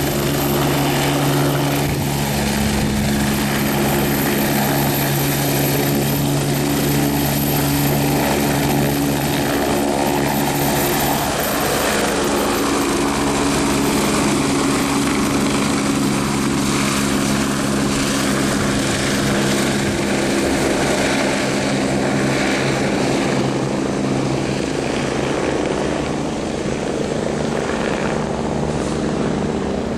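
Medical helicopter running, its engine and rotor giving a loud, steady drone.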